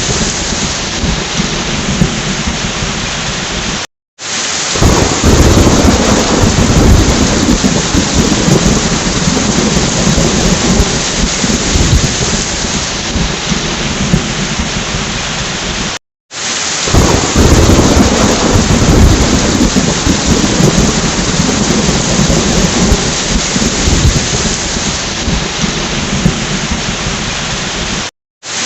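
Heavy rain with rolling thunder. The sound cuts out for about half a second roughly every twelve seconds, three times, and the low rumble swells up again after each gap, as a looped recording does.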